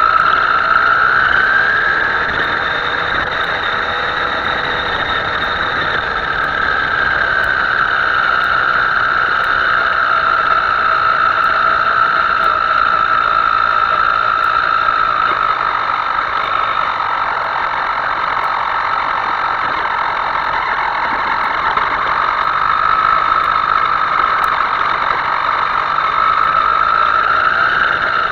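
Himoto radio-controlled model's motor running with a steady high whine, its pitch drifting slowly up and down with the throttle.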